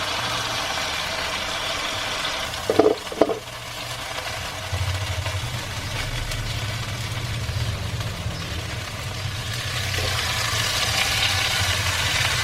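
Chicken pieces sizzling as they fry in a pan, a steady hiss, with two short knocks about three seconds in.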